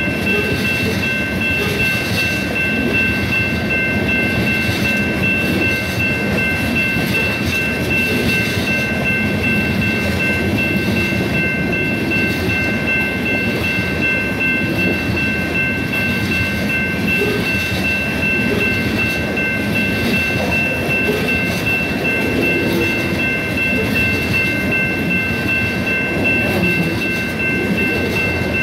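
Coal train's open-top coal cars rolling past at speed: a steady rumble and rattle of steel wheels on the rails, with a steady high whine over it.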